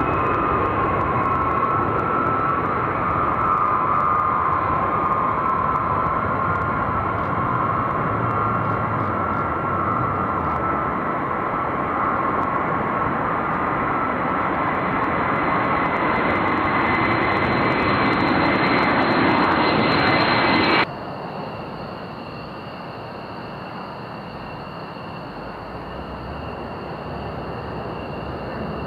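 Military jet aircraft engines running loud during takeoff, with a high whine that rises slowly in pitch. About two-thirds of the way through, the sound cuts off suddenly to a quieter jet engine sound with steady whining tones.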